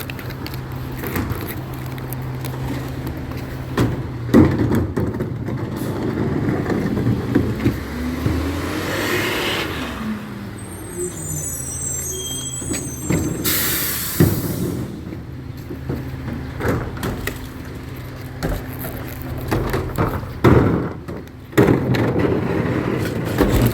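Recycling truck running, its diesel engine humming steadily and revving up and back down once partway through. A loud air hiss sounds just after the middle, and scattered clanks and knocks come throughout.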